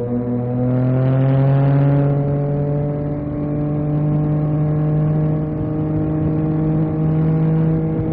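Yamaha MT-09 SP's inline-three engine under way, its pitch climbing over the first two seconds as it accelerates, then holding steady at a cruise.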